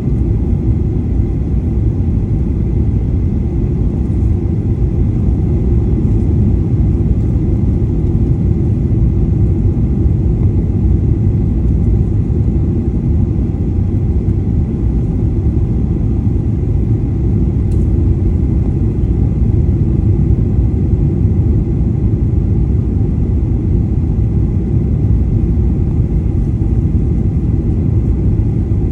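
Boeing 737 airliner heard from inside the cabin on approach: a steady low rumble of engine and airflow noise, with a faint steady high tone over it.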